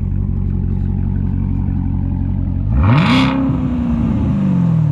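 Chevrolet Corvette ZR1's supercharged V8 idling, then revved once sharply about three seconds in: the pitch shoots up and then falls slowly back toward idle.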